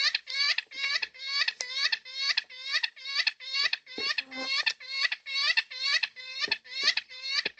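Yellow-tailed black cockatoo calling in a fast, even run of short, squeaky repeated calls, about three a second.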